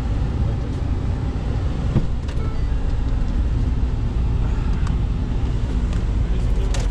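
Vehicle driving, heard from inside the cab: a steady low engine and road rumble with a few small knocks.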